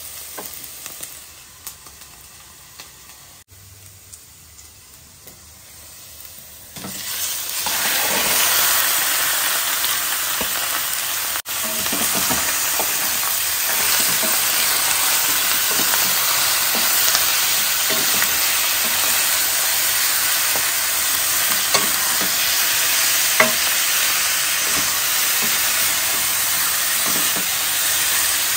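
Chopped onion sizzling softly in hot oil in a wok, then about seven seconds in a sudden loud, steady sizzle as raw pork chunks hit the oil. Spatula clicks and scrapes against the pan as the meat is stirred.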